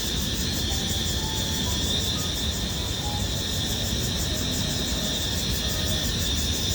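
Cicadas calling in a steady chorus, a continuous high, buzzing drone with a fine pulsing texture, over a low steady rumble.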